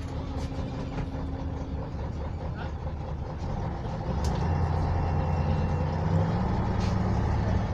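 MAZ-104 city bus's YaMZ-236M2 V6 diesel running, heard from inside the bus, getting louder about four seconds in, with a few short clicks.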